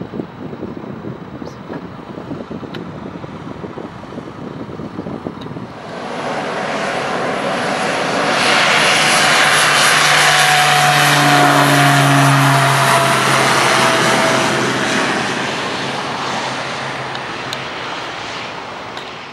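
Light propeller airplane passing close by. Its engine comes up about six seconds in, is loudest in the middle with a steady droning tone that dips slightly in pitch, then fades away. Wind noise on the microphone before it arrives.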